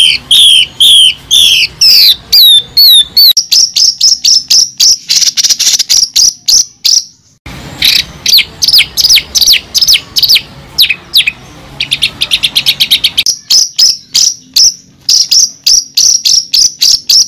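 A bird calling close up: long runs of sharp, quick chirps, several a second, each sweeping downward in pitch, with a brief break about halfway through and a faster run of notes after it.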